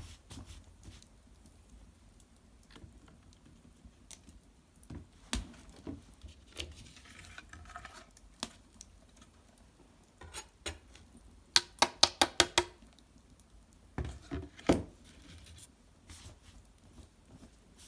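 Cedar branches and bark burning in an open hearth fire, crackling with scattered snaps, and a quick run of about seven sharp pops a little past the middle.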